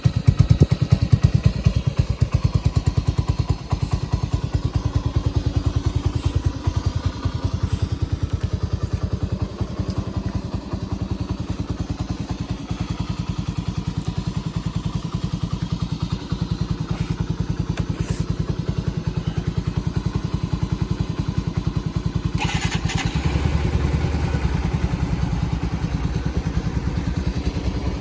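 Exhaust of a small single-cylinder four-stroke motorcycle engine idling, a steady rapid putter. A short hiss comes late on, and the note deepens a little after it.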